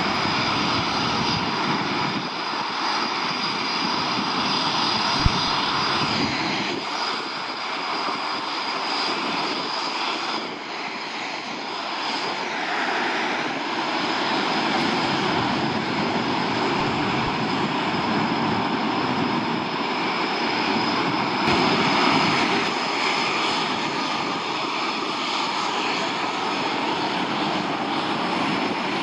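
Military aircraft engines running in a steady, loud roar during a mass take-off, with a steady high whine over it. A short knock sounds about five seconds in.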